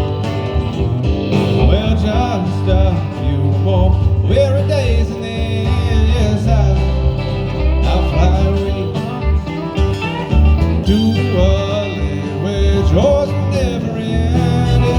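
Country-style music played on guitars with bass, a bending melody line wavering over the accompaniment.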